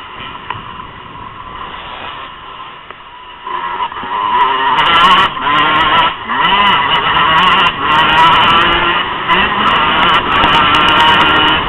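Motocross bike engines revving on a race track, quieter at first and much louder from about three and a half seconds in, their pitch rising and falling with the throttle.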